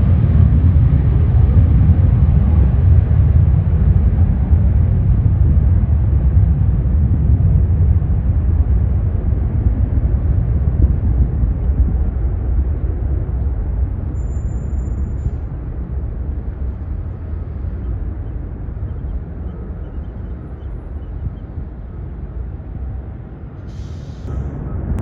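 Jet airliner engines heard as a loud, deep rumble that slowly fades away as the aircraft moves off.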